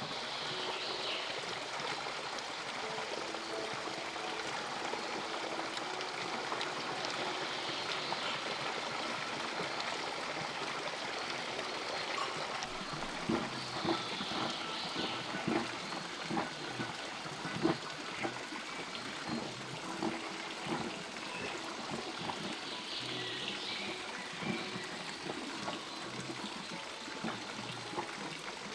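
Water running and trickling steadily, with a series of light knocks and clicks through the middle.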